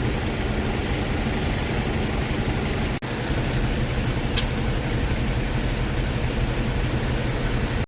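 Scania R tractor unit's diesel engine idling steadily, with a brief break about three seconds in.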